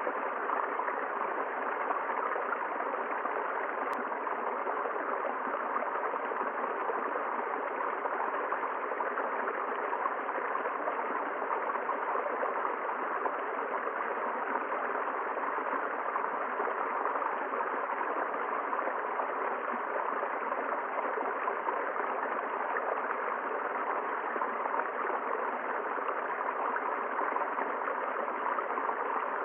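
River water flowing steadily, a continuous even rush of running water.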